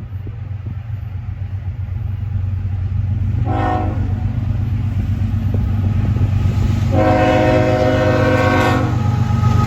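Diesel freight locomotive sounding its multi-chime air horn, a short blast followed a few seconds later by a long one, over the steady low rumble of the engine growing louder as the train approaches.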